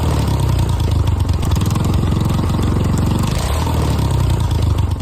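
Coleman mini bike's small single-cylinder engine running loudly at a steady speed, then cutting off abruptly near the end.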